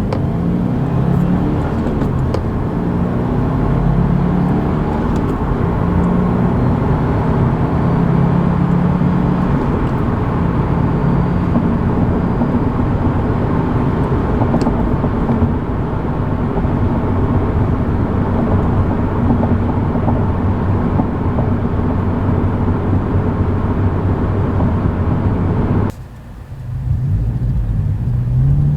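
2024 Subaru WRX's turbocharged 2.4-litre flat-four engine and exhaust running steadily, the note shifting a little in pitch. Near the end the sound drops away suddenly for about a second, then comes back.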